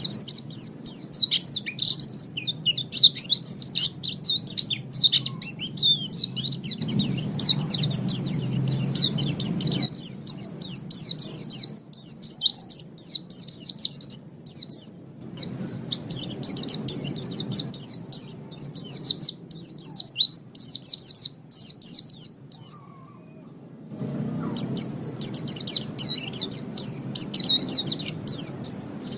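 White-eye (pleci) singing: long runs of rapid, high twittering chirps, broken by a short pause about three-quarters of the way through, over a low background rumble that comes and goes.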